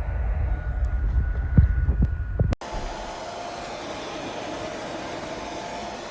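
Hair dryer running with a bonnet hood attachment. First comes a heavy low rumble of air buffeting the microphone, with a thin steady whine and two thumps. After a sudden cut about two and a half seconds in, there is a steady, even hiss of blowing air with a hum.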